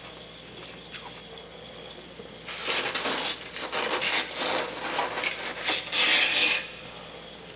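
Soft freezer frost crunching and scraping: a dense run of short rasping crackles for about four seconds, starting a couple of seconds in.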